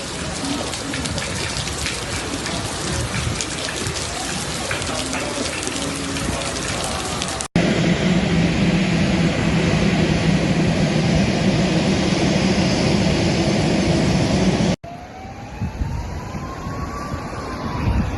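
Heavy rain pouring down in three separate clips. The middle clip is louder, with a steady low hum under the rain, and the last has a tone that rises and then falls.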